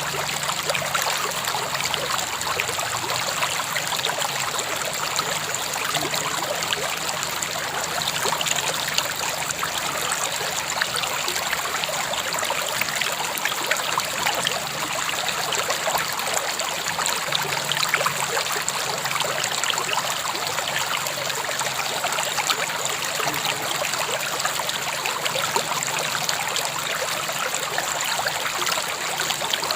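River water flowing steadily over stones, a continuous rushing with fine trickling and splashing.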